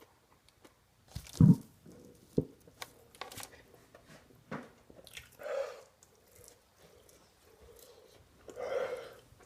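Close-up chewing of a mouthful of burger and bacon, with wet clicks and crunches. There is a loud low thump about one and a half seconds in, and two short breathy sounds later on.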